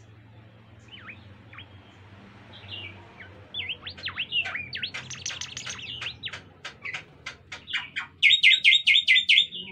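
Bimoli bird singing: a few scattered down-slurred whistles, then from about three and a half seconds a fast run of sweeping notes that builds into a loud, rapid string of repeated notes near the end before cutting off.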